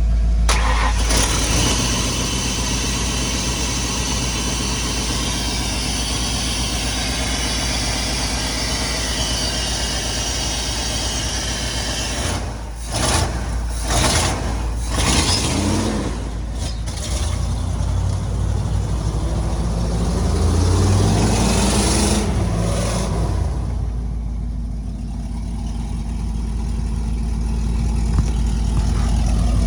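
Ford 460 big-block V8 running rough while its ignition timing is set by ear, engine speed dipping and rising a few times in the middle.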